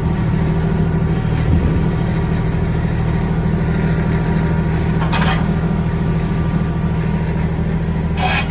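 Semi truck's diesel engine idling steadily, with a brief sharp noise about five seconds in.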